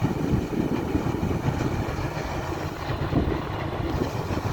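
Combine harvester running, a steady, dense mechanical rumble of engine and machinery.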